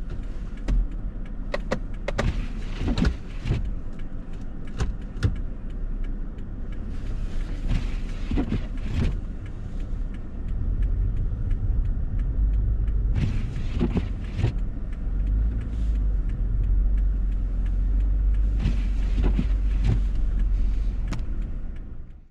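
Four-wheel-drive vehicle driving on snow, heard inside the cab: a steady low rumble of engine and tyres, with scattered sharp knocks and clicks.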